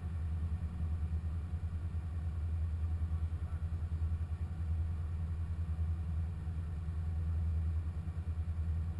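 2015 Corvette Z06's supercharged 6.2-litre V8 idling steadily with a low, even rumble; the revs neither rise nor fall.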